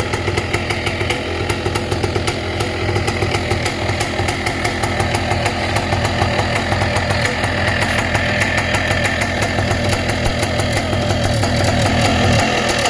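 Vittorazi ATOM 80 78cc two-stroke paramotor engine running steadily on a tuned expansion-chamber exhaust, its rapid firing pulses getting slightly louder towards the end.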